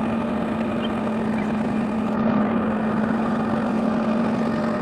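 Truck engine running steadily, with an even hum that holds one pitch throughout.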